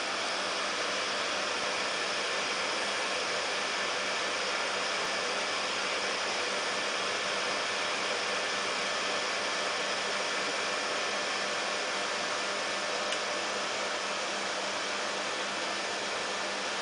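Vacuum cleaner running steadily: an even rush of air with a faint motor hum, unchanging throughout.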